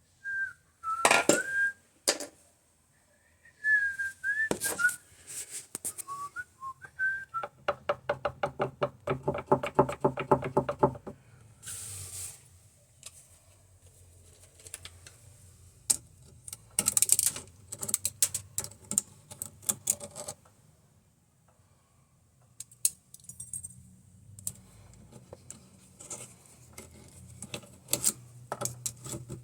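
A person whistling short phrases, with sharp clicks, clinks and taps of tools and metal parts being handled. About a third of the way in comes a rapid, even rattle lasting about three seconds.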